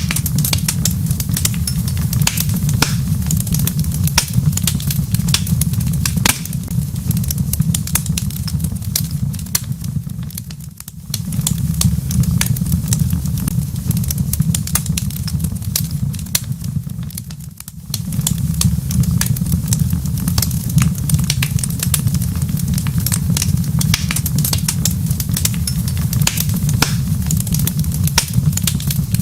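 Wood fire in a fireplace crackling, with frequent sharp pops and snaps over a steady low rumble. The sound dips briefly twice, about a third of the way in and again a little past halfway.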